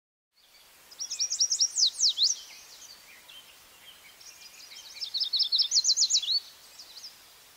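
A songbird singing two short phrases of quick, high chirps running into down-slurred notes, the first about a second in and the second about five seconds in, over a faint steady outdoor hiss.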